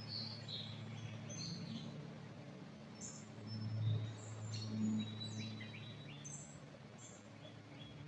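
Small birds chirping and whistling, with many short high calls scattered through, over a steady low hum that swells briefly near the middle.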